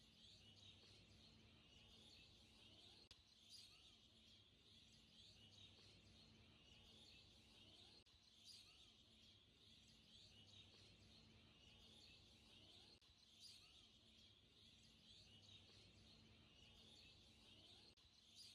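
Near silence with faint, high bird chirping in the background.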